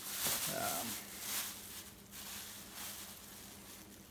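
Rustling and handling noise, most likely a bag of flaxseed being handled and opened. It is loudest in the first two seconds and fades toward the end, with a brief squeak about half a second in.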